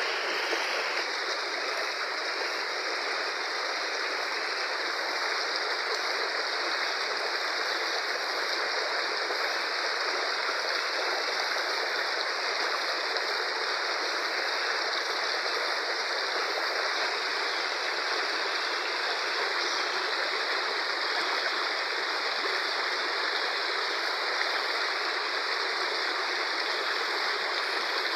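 Fast-flowing river rushing, a steady, even noise of water.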